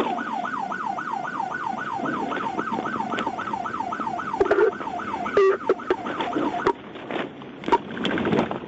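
Police car siren on its fast yelp setting, rising and falling about three times a second, which cuts off about five seconds in; a few knocks follow.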